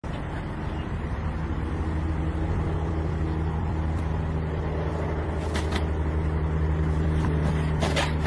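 Steady low drone of a running vehicle engine, with a couple of faint rustles about two-thirds of the way through and near the end.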